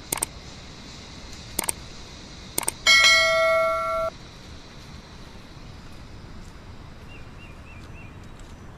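Three sharp clicks, then a loud bell-like ding of about a second that cuts off abruptly; faint quick chirps later on.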